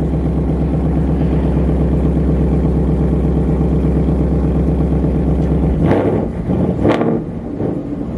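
Performance car engine running steadily with a deep exhaust drone, then revved in short, sharp blips about six and seven seconds in.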